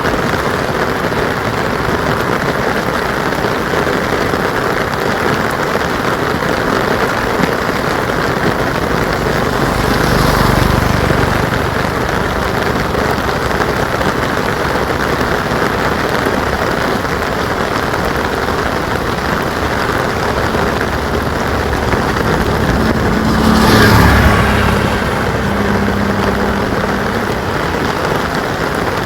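Steady rain falling and pattering on surfaces. Twice, about ten seconds in and again near the end, a vehicle passes, its low rumble swelling over the rain and fading away.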